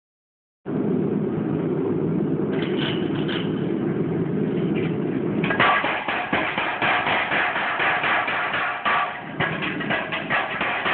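Metz power hammer running: first a steady motor hum, then about halfway through the ram starts pounding in rapid repeated blows, with a brief let-up just after nine seconds.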